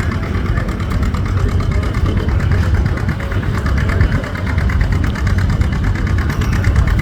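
John Deere AR's two-cylinder engine labouring under load as the tractor slowly drags a pulling sled, running with a steady, rapid firing beat.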